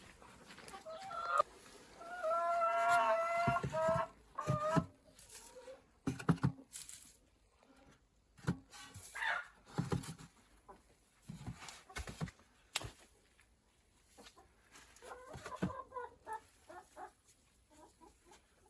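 Chickens: a rooster crows once, a long call about two seconds in, followed by scattered clucks and short knocks.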